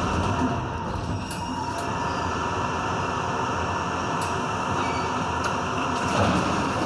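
R62A subway train running along the track, heard from inside the car: a steady rumble of wheels and rail noise with a faint steady whine.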